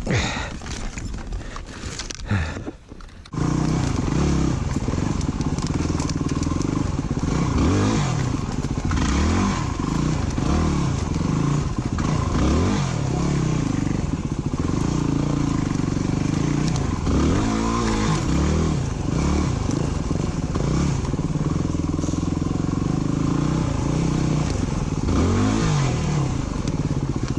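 Clattering and rustling for about three seconds, then an abrupt switch to a dirt bike engine running and revving up and down repeatedly as it is ridden.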